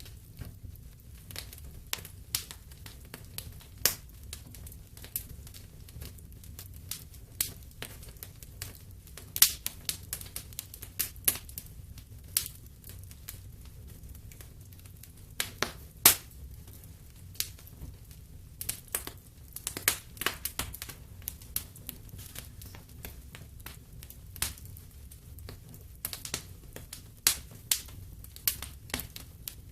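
Wood fire crackling in a fireplace: irregular sharp pops and snaps, some loud, over a low steady rumble of the flames.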